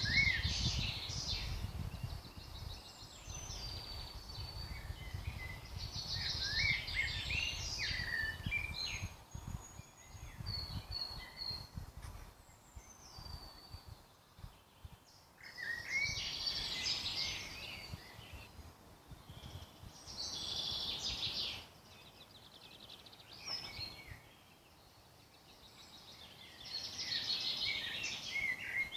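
Woodland songbirds singing, with phrases of quick trills and whistled notes coming in clusters every few seconds, over a low rumble that fades out after about the first ten seconds.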